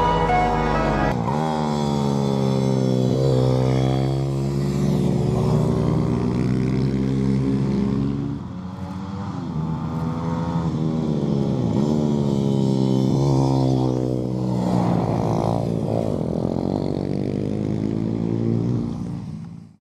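Small minibike or pit bike engines running and revving, their pitch climbing and dropping again several times.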